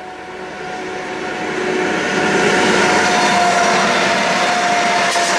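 Grain train led by diesel locomotives passing close across a level crossing, growing louder for about two seconds and then staying loud, with a steady high whine over the rumble of the locomotives and wagons.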